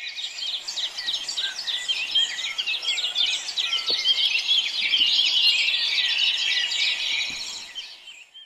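A dense chorus of many small birds chirping and trilling over one another, fading in at the start and fading out near the end.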